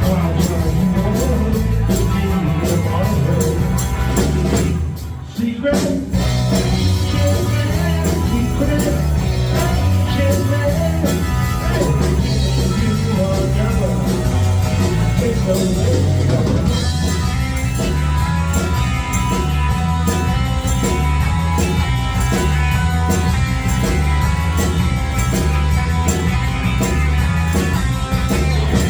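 Live rock band playing, with a steady bass line and drum beat. The music drops out briefly about five seconds in, then comes back in.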